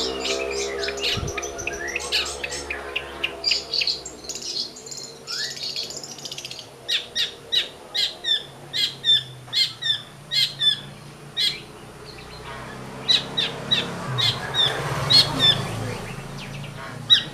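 Long-tailed shrike (cendet) calling in runs of short, sharp, repeated chirps, a few per second, with scratchier song in the first seconds. A passing vehicle's engine fades out in the first few seconds.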